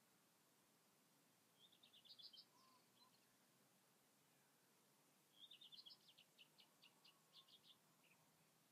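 A songbird singing faintly over a low hiss: a short burst of quick, high notes about two seconds in, then a longer phrase of rapid notes from about five to eight seconds.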